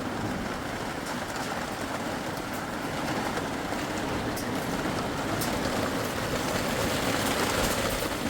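Heavy rain falling in a steady rush, with scattered sharp ticks of drops or hail.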